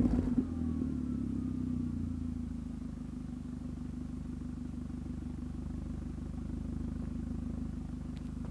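VW Bora 1.8T's turbocharged four-cylinder engine through a 2.5-inch stainless steel exhaust, settling back down from a rev over the first couple of seconds, then idling steadily.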